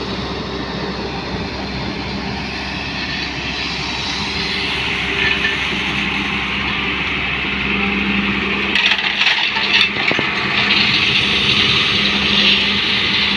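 Heavy diesel engine running steadily while crushed stone is loaded. A few sharp knocks come about nine seconds in, then a louder hissing rush.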